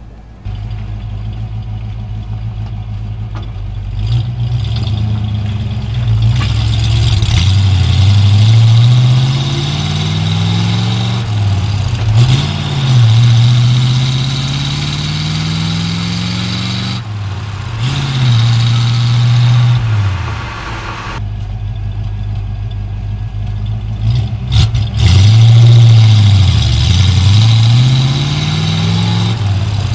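1956 Chevrolet Bel Air Nomad's 265 cubic-inch V8 running as the car is driven. The engine pitch climbs under acceleration and drops back several times, about a dozen seconds in, again a few seconds later and near the end.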